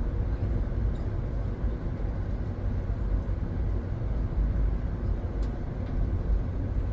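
Steady low rumble of a passenger train car in motion, heard from inside the car, with a couple of faint clicks.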